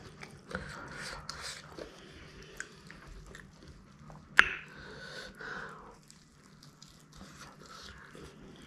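Close-up eating sounds: a person biting and chewing an egg roll filled with noodles, with soft wet mouth clicks throughout and one sharp click about four seconds in, the loudest sound.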